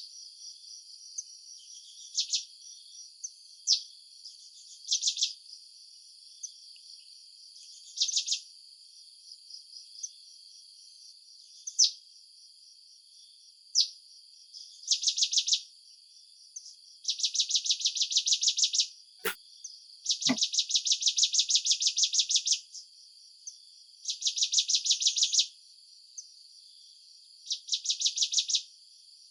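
Insects chirring in a steady high chorus, broken by repeated rapid pulsed trills lasting one to five seconds each. Two sharp clicks come about two-thirds of the way in.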